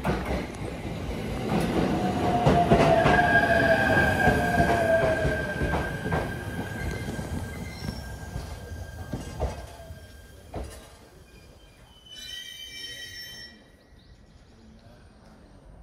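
Shinano Railway train running through Yashiro Station with its wheels squealing, the squeal sliding slowly down in pitch as the train slows and its rumble fades. A few sharp clanks follow, then a short high-pitched sound about three-quarters of the way in.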